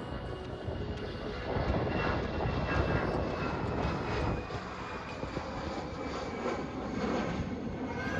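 Jet airliner engines: a steady roar with a faint high whine that drifts slightly down in pitch.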